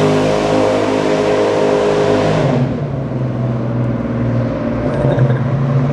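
Chevrolet 502 big-block V8 with a performance cam and Alien intake manifold, running hard at high revs. About two and a half seconds in, the revs drop and it settles to a lower, steadier note.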